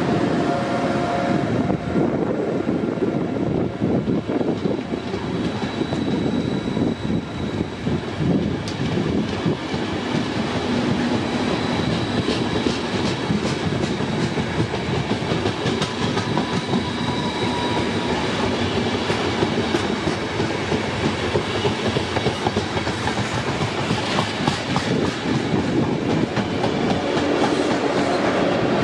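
Trenitalia Intercity train, an electric locomotive hauling passenger carriages, passing close at speed. The wheels run steadily on the rails with a fast clickety-clack over the rail joints.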